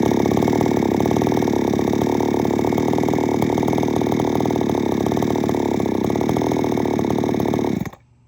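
XtremepowerUS 6200 two-stroke gas chainsaw idling steadily, then shut off about eight seconds in, its engine dying away quickly.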